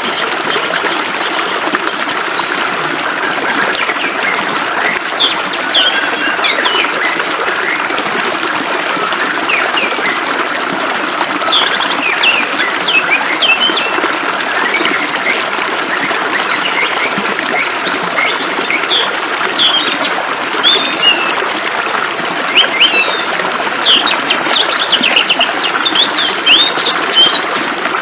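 Small birds chirping in quick, short calls over the steady hiss of flowing water. The chirping grows busier in the second half.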